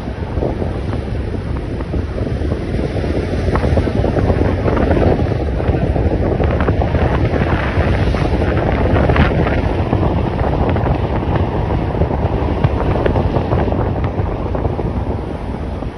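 Loud wind buffeting the microphone, a continuous rumble and rush of noise.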